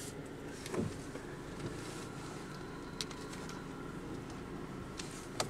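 Car engine running at low speed, heard as a steady hum from inside the cabin, with a few short knocks and clicks, the heaviest about a second in.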